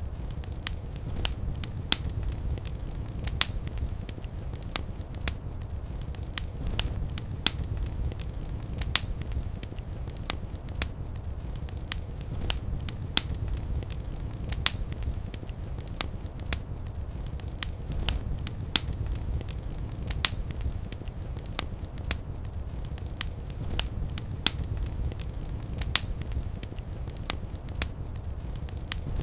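Fireplace fire crackling, with sharp, irregular pops several times a second over a steady low rumble of the flames.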